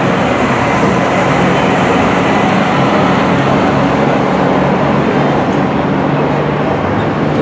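Loud, steady engine noise of stock cars running, an even drone with no break.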